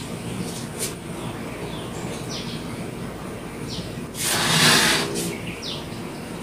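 Outdoor background with short, high bird chirps repeating every second or so over a low steady hum, and a louder rustling rush lasting about a second a little past the middle.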